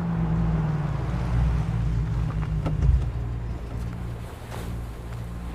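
Car engine running with a low, steady drone and a sharp knock about three seconds in.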